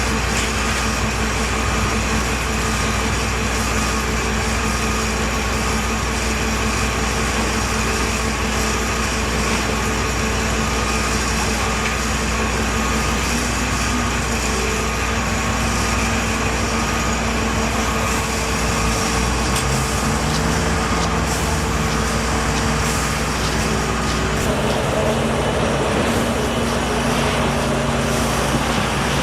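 Heavy engines running steadily, with the sound of trucks or construction machinery. Their pitch shifts about two-thirds of the way through.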